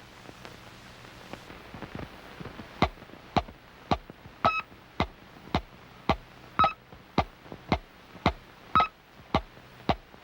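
Electronic ticking sound effect from a vintage cartoon soundtrack: sharp clicks a little under two a second, faint at first and loud from about three seconds in, with a short high beep on every fourth click. A low steady hum and hiss of an old film soundtrack lie underneath.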